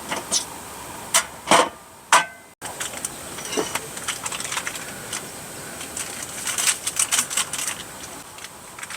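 Irregular light clicks and clatter of small objects being handled, thickest about seven seconds in, with a few louder knocks in the first three seconds.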